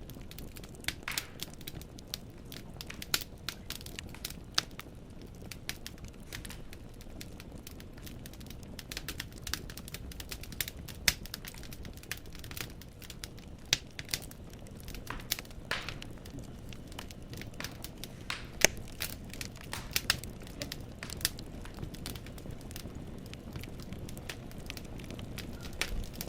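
Wood fire in a fireplace crackling: logs popping in sharp, irregular snaps over a steady low hiss of burning.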